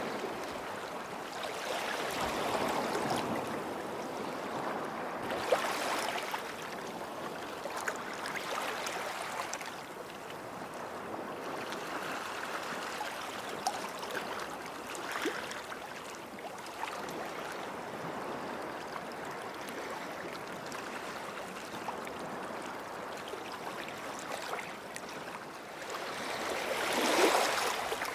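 Small sea waves washing and lapping at the shoreline, swelling and easing every few seconds, with a louder wash near the end.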